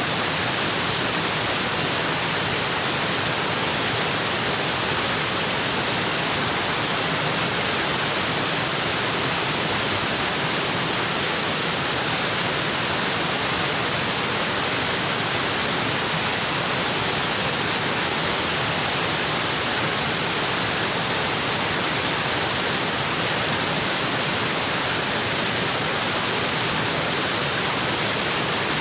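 Waterfall: a steady, even rush of water pouring onto rocks, unbroken throughout.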